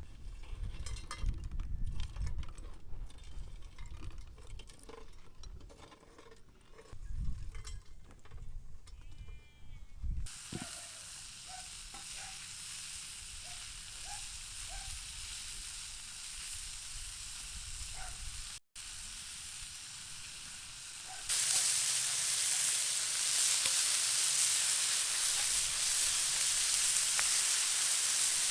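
Food frying, sizzling steadily from about ten seconds in and getting clearly louder about twenty seconds in. Before that there is only a low rumble with scattered clicks.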